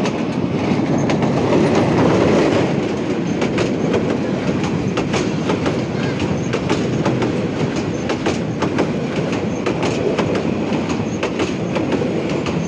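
A train crossing an old railway bridge close by: a loud, steady rumble with rapid clacking of wheels over rail joints, loudest about two seconds in.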